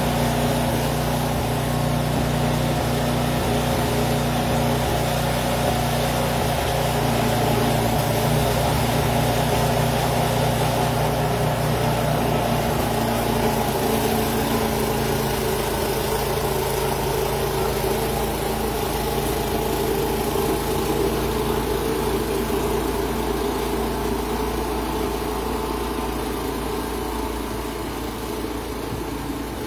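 An engine running steadily. Its tone changes a little about halfway through, and it fades slightly near the end.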